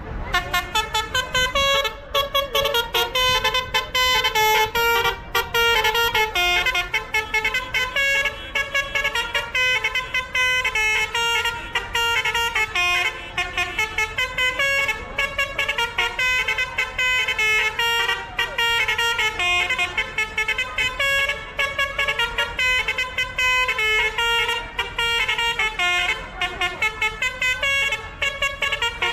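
A vehicle's musical horn playing a fast tune, note after note in quick succession, over a low engine rumble.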